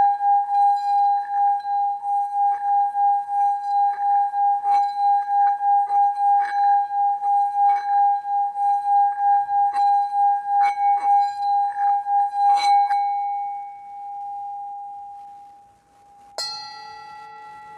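Singing bowl played around the rim with a mallet: one steady ringing tone pulsing about three times a second, with light clicks of the mallet against the bowl. The rimming stops about 13 seconds in and the tone fades away, then the bowl is struck once and rings on.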